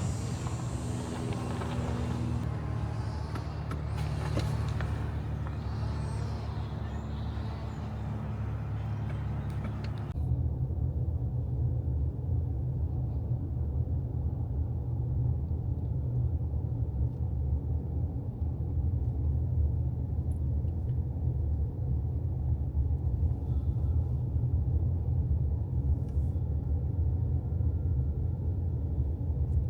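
Motor vehicle noise: for about ten seconds a brighter traffic sound with engine hum and hiss. It then switches suddenly to a steady, deep road rumble.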